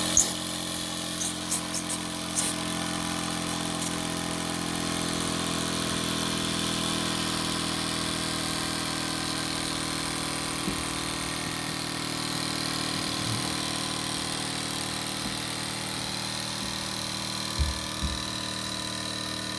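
Mamod TE1A toy live-steam traction engine, with a single oscillating cylinder, running steadily while stationary on steam. A few sharp clicks come in the first couple of seconds and a couple of short knocks near the end.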